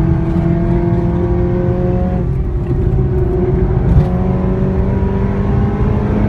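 Seat Leon Cupra with a loud exhaust accelerating hard under full throttle, the engine note climbing steadily in pitch, dropping with an upshift about two seconds in, then climbing again toward another shift at the end.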